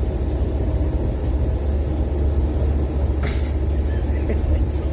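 Steady low rumble of a moving passenger train, heard from inside the carriage, with a short hiss about three seconds in.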